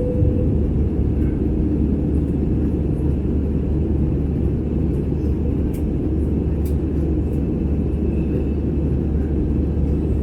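Steady low rumble of an Airbus A320's engines and airflow heard inside the passenger cabin while the aircraft climbs or flies after takeoff.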